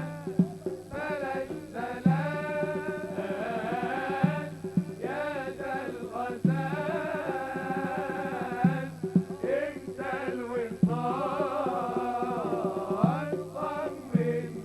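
Live Arabic wedding band music: an ornamented, wavering melody line over a percussion beat that lands with a heavy hit about every two seconds.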